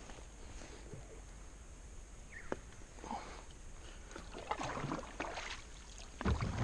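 Kayak paddle strokes splashing in the river. The strokes come in repeated bursts that get louder in the second half, with a low thump near the end.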